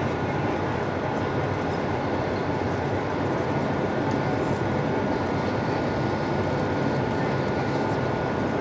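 Steady cabin noise of an Airbus A220-300 in flight or on the ground with engines running: the rush of its Pratt & Whitney PW1500G geared turbofans and airflow, with a thin steady whine over it.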